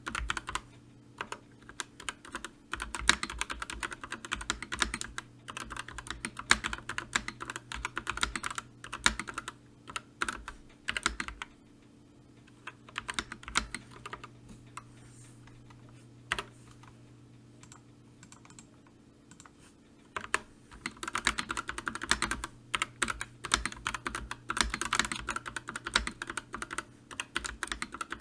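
Typing on a computer keyboard: fast runs of key clicks that thin out to a few scattered keystrokes around the middle, then pick up quickly again.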